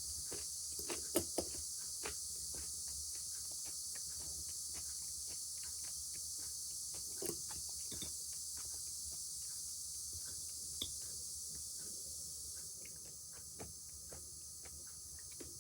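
Cicadas singing in a steady, unbroken high buzz. Scattered light clicks and taps sound over it, and the buzz drops a little in level near the end.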